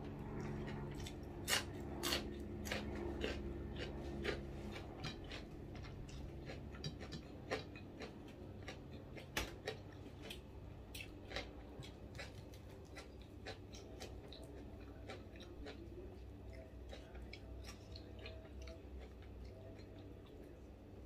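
Close-up eating sounds: chewing and crunching food, with many sharp, irregular clicks that come thickly at first and thin out later, over a low steady hum.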